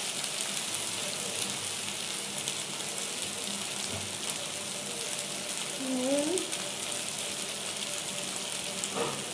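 Mixed vegetables sizzling steadily as they fry in mustard oil in a kadai, stirred now and then with a wooden spatula.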